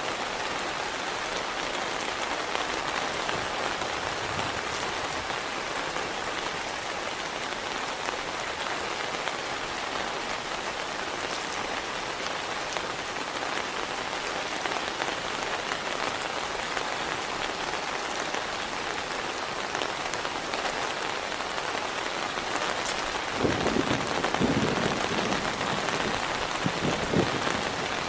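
Heavy rain falling steadily, a dense even patter. In the last few seconds a low rumble rises under the rain.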